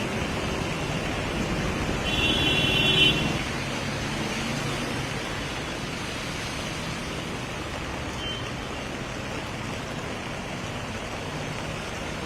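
Steady road traffic noise. About two seconds in, a vehicle horn sounds for a little over a second.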